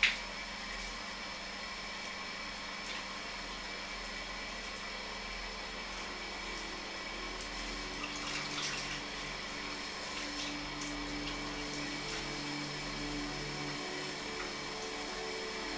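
Running water, a steady hiss, with a sharp click at the very start and faint low steady tones coming in about halfway through.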